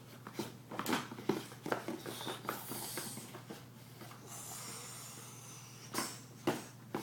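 Toy monster trucks knocking and clattering as a child drives them around: a run of light, irregular taps and knocks, with a soft hissing noise around the middle.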